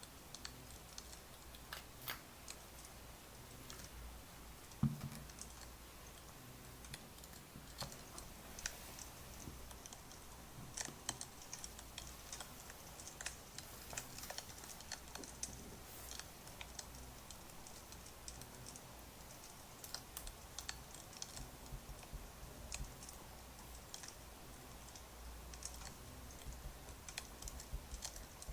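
Scattered light clicks and ticks over a steady low hum, with one dull knock about five seconds in.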